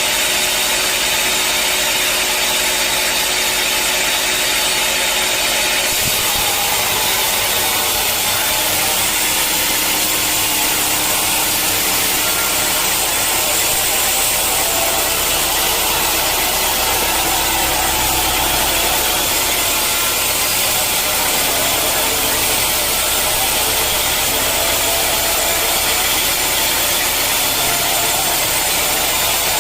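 Sawmill saw running steadily with a loud, even hiss. About six seconds in the sound changes: the highest hiss drops away and a low rumble comes in.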